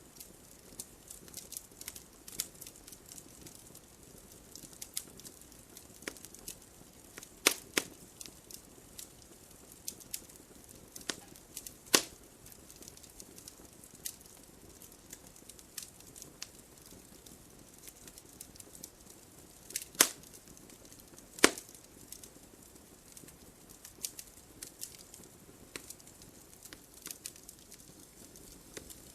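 Wood fire in a fireplace crackling, with irregular small snaps and a few louder pops over a soft steady hiss.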